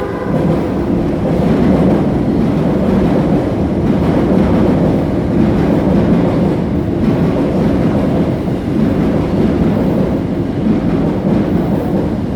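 Kita-Osaka Kyuko 9000 series electric train running into the station platform: a steady, loud rumble of wheels and running gear.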